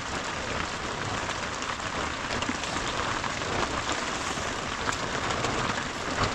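Steady patter and hiss of a winter storm, precipitation beating on a surface, with a few faint scattered clicks.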